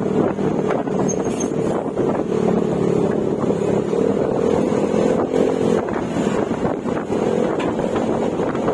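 Yamaha Mio Gravis scooter's single-cylinder four-stroke engine running through an aftermarket Akrapovic exhaust with silencer while riding at steady speed, the engine note climbing a little about four seconds in and easing back near six seconds. Wind rushes over the microphone throughout.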